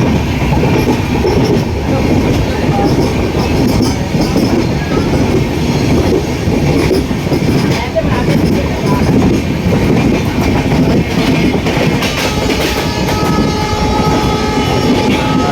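Train running at speed, heard from on board: a steady loud rumble with wheels clacking over the rail joints. About twelve seconds in, a long steady two-note tone joins it and holds.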